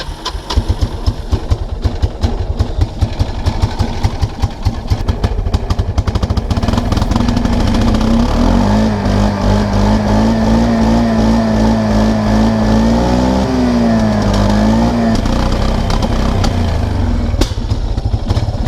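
Kawasaki Prairie 300 ATV engine held at full throttle but running rough and bogging, firing unevenly instead of revving out. About halfway through it smooths into a steadier, wavering drone for several seconds, then stumbles again.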